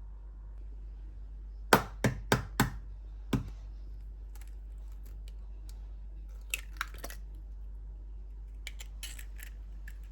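A run of sharp knocks and clicks, as of hard objects being handled and set down: five loud ones in quick succession about two seconds in, then fainter clicks later, over a steady low hum.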